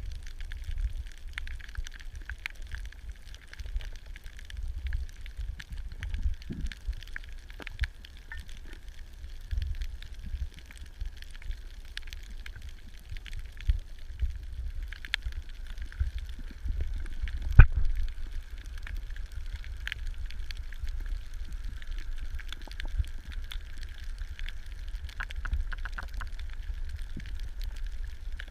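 Underwater ambience on a coral reef: a steady low rumble of moving water with scattered crackling clicks throughout, one louder click about two-thirds of the way in.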